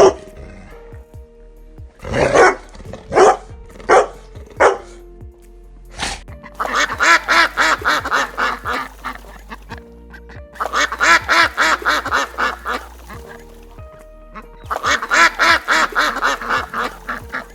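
An animal calling over background music: four separate loud calls, then three long runs of rapid, evenly spaced calls at about five a second.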